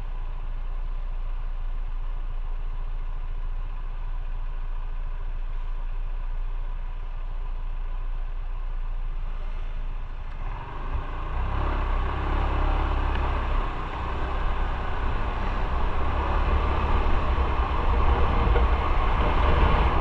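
Motorcycle engine running with a low, steady rumble. About halfway through it gets louder as the bike speeds up, with a rushing wind and road noise building toward the end.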